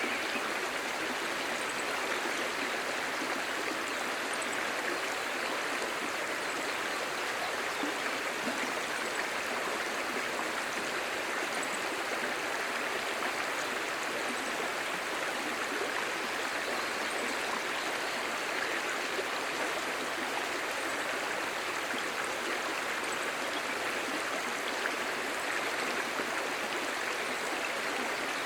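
A clear, shallow stream murmuring: a steady, even rush of flowing water.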